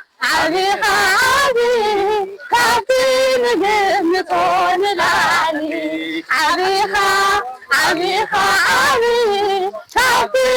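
A voice singing in phrases of about two seconds, with held, wavering notes and short breaks between phrases.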